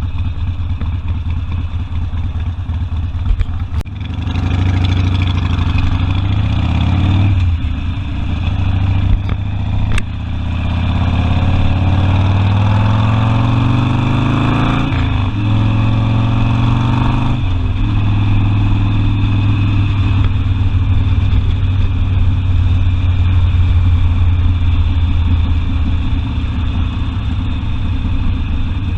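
Harley-Davidson Sportster's V-twin engine under way. Revs climb from about 4 seconds in, dip briefly with a gear change near 7 seconds, then climb again from about 10 to 15 seconds with another shift. After about 18 seconds it settles to a steady cruise.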